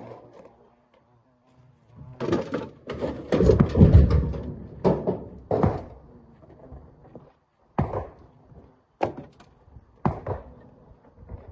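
Rocks thudding and clattering into a steel dump truck bed during loading: a dense run of heavy, rumbling impacts about two to six seconds in, then single thuds about a second apart.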